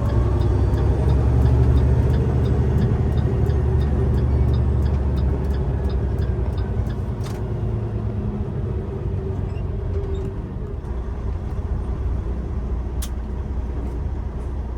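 A truck engine runs steadily with road noise, making a low rumble that eases a little after about five seconds.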